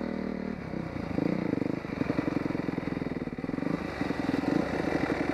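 Dirt bike engine running. It holds a steady pitch, then about half a second in it drops to a low, fast, pulsing chug.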